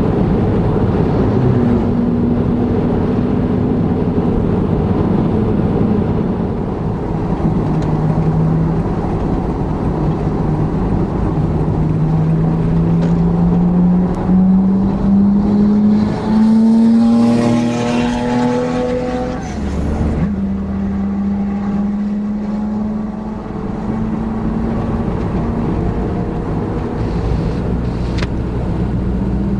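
Car engine and exhaust heard on the road, its note climbing slowly for several seconds as it accelerates, with a higher, layered engine note rising over it about two-thirds through before the pitch drops suddenly, as at a gear change.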